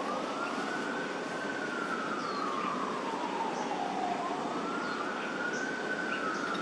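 Emergency vehicle siren wailing, slowly rising and falling in pitch, about one cycle every four seconds, over steady background noise.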